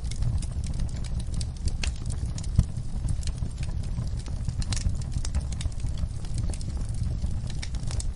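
Wood fire in a fireplace crackling, with irregular small pops over a low steady rumble of the flames and one louder pop about two and a half seconds in.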